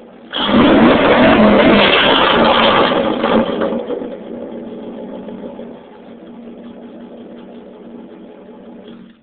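Loud exhaust of a 1998 Dodge Ram 1500 pickup with dual 3-inch tips, recorded on a cell phone. The engine revs up sharply just after the start and holds high for about three seconds. It then falls back and settles to a steady idle.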